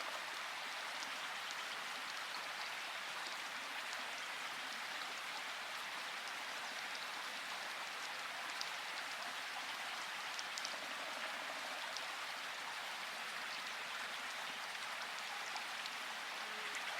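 Steady rain falling, an even hiss with scattered individual drops ticking through it. No thunder is heard.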